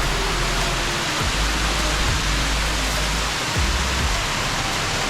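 Waterfall rushing: a loud, steady wash of falling water, with faint music underneath.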